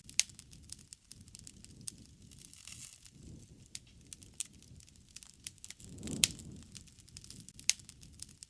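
Wood fire crackling: sharp pops and snaps scattered irregularly, the loudest just after the start and about six seconds in, over a low rumble that swells a few times.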